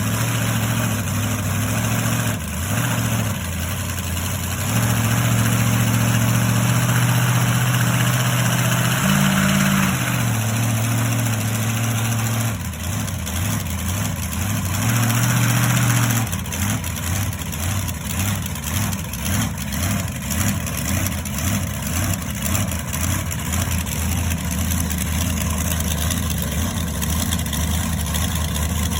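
Monster truck engine running. In the first half it is held at a higher steady speed for a few seconds, twice, with steps up and down in between. After about the middle it settles into a lumpy, pulsing idle.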